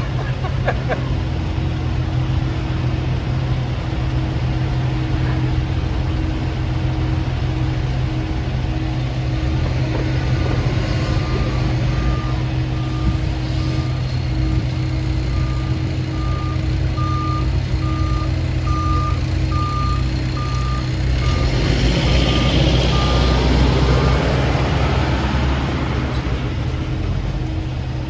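Heavy truck's diesel engine idling steadily. A reversing beeper sounds repeatedly for about ten seconds in the middle. Near the end a louder engine rises and then falls away.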